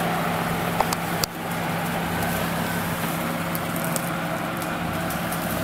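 Nissan car's engine running steadily, standing still, with a sharp click about a second in.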